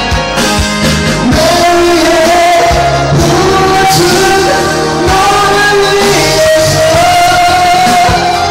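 Karaoke backing track of a Korean pop-rock song with a voice singing over it in long, held notes.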